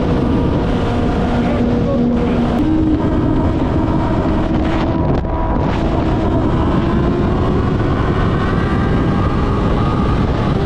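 Kawasaki ZX-6R's inline-four engine running at speed, with heavy wind noise on the microphone. The engine note steps up about two and a half seconds in, then climbs slowly.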